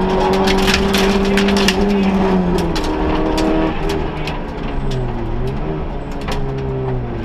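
Vauxhall Nova rally car engine heard from inside the cabin, held at high revs, then dropping in pitch about three seconds in as the driver lifts off and the car slows, with sharp clicks and rattles throughout.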